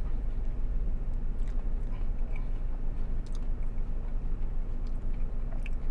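Chewing a mouthful of crispy-shelled ackee and plantain taco, with a few faint crunches, over a steady low hum in the car cabin.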